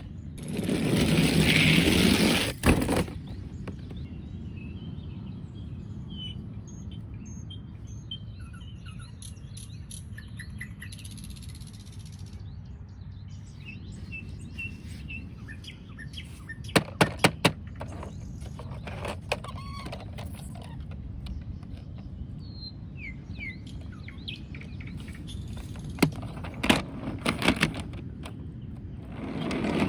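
Birds chirping faintly over a low steady background rumble, opening with a few seconds of loud rustling noise. Four sharp clicks come in quick succession about halfway through, and a few more near the end.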